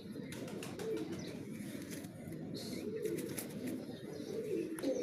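Domestic pigeons cooing, a continuous low overlapping murmur of calls.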